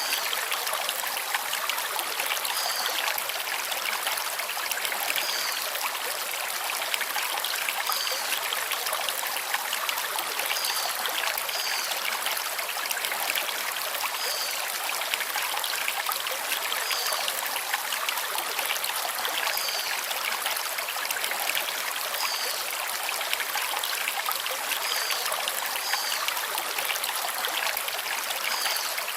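Forest stream flowing over stones, a steady rush and trickle of water. A small bird repeats a short, high chirp about every two to three seconds over it.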